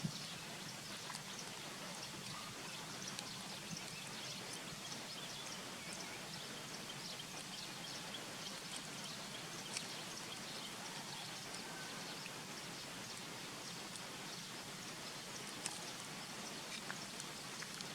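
Steady outdoor background hiss with many small scattered clicks and ticks, a couple of them louder, about ten seconds in and near the end.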